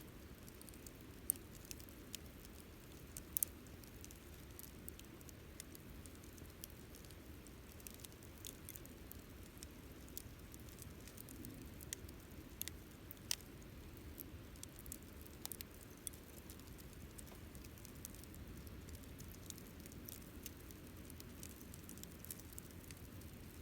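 Wood bonfire crackling, with irregular sharp snaps and pops, a few of them louder, over a steady low background.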